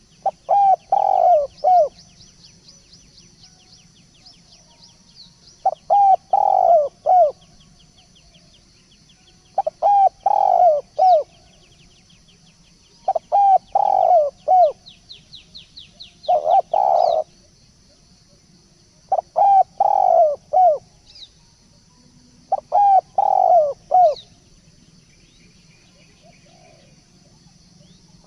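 Spotted dove (tekukur) cooing as a lure call: phrases of three or four low, falling coos, repeated about every three to four seconds, with a pause of a few seconds near the end. Faint, fast high chirps and trills from small birds run underneath.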